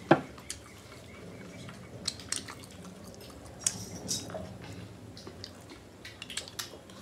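Close-up eating sounds: soft wet chewing with scattered sharp mouth clicks and smacks as spoonfuls of macaroni are eaten.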